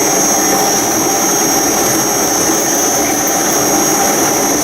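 ASL RT3 concrete grinder running steadily with its attached blower-motor vacuum, a constant machine noise with a steady high whine.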